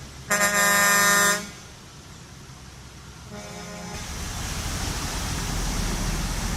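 Vehicle horn honking: a loud steady blast just over a second long, then a shorter, fainter toot a few seconds later. After that, vehicle engine noise builds steadily.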